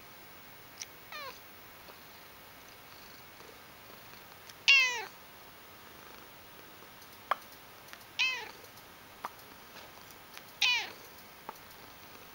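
Domestic cat meowing: four short calls spaced a few seconds apart, each falling in pitch, the second the loudest. A few sharp clicks fall between the later calls.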